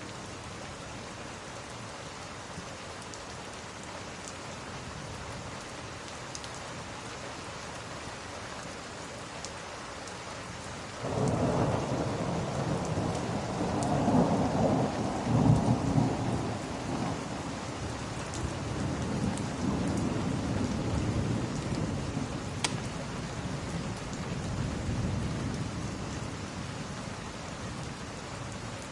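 Steady rain falling, then about eleven seconds in a sudden clap of thunder that rolls on as a long low rumble, loudest a few seconds after it starts and slowly fading near the end.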